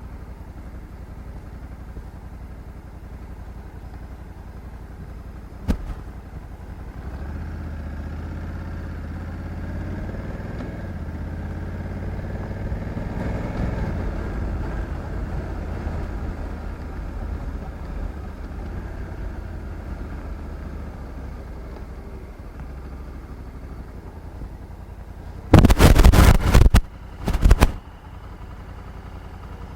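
Honda Africa Twin 1100 DCT's parallel-twin engine running steadily, growing louder for a while before settling again. A sharp click comes about six seconds in. Near the end, two loud rushing noises, the first over a second long, are louder than the engine.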